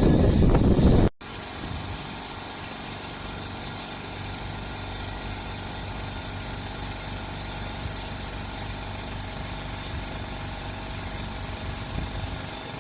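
Oil-less electric air compressor running loudly. About a second in it cuts off abruptly and gives way to a quieter, steady machine hum with a few fixed tones.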